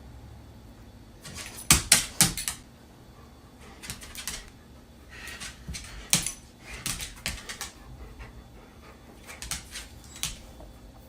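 A dog making groups of short, sharp sounds, loudest about two seconds in, with further groups around six to seven seconds and near ten seconds in.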